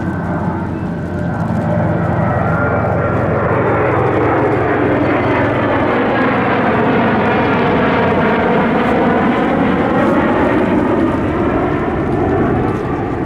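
Military aircraft flying past, a steady engine roar that grows louder about two seconds in and eases slightly near the end, with a sweeping, shifting tone as it passes.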